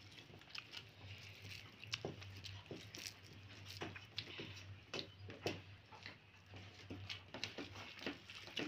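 Faint chewing and small mouth clicks of a person eating, irregular and soft, over a low steady hum.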